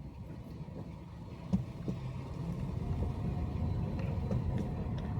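Low rumble of a car on the move, heard from inside: road and engine noise. A single sharp knock comes about one and a half seconds in, and the rumble grows louder in the second half.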